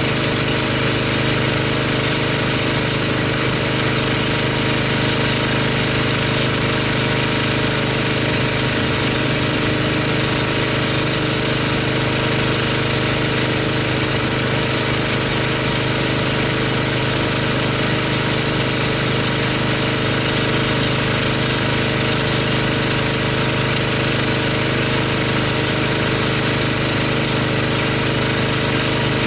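Pressure washer running steadily as it rinses car wash soap off a car: a constant motor-and-pump drone with the hiss of the water jet over it.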